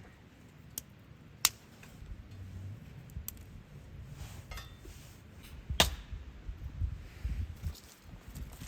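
Scattered sharp clicks and small knocks over low, irregular rustling and handling noise; the loudest click comes a little before six seconds in.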